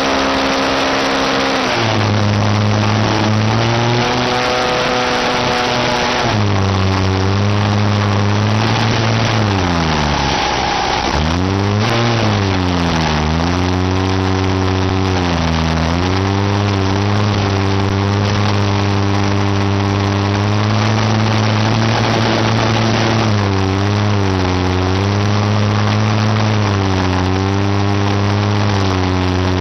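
Engine running and being revved, its deep note rising and falling repeatedly, with a drop to a low rumble about ten seconds in before it climbs again.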